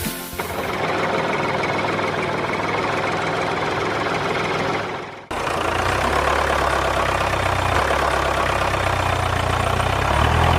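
A small motor-driven machine running steadily, with a dense mechanical noise. About five seconds in there is a sharp break, and after it the running goes on with a steady low hum underneath.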